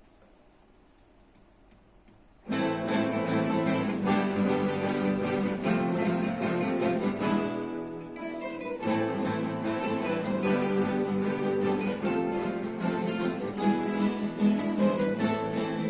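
An ensemble of acoustic guitars starts playing suddenly after a near-silent pause of about two and a half seconds, with plucked notes and chords.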